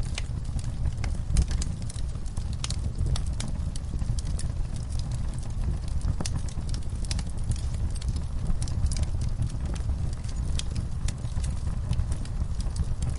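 Wood fire burning in a fireplace: a steady low rumble of flames with frequent sharp, irregular crackles and pops, several a second.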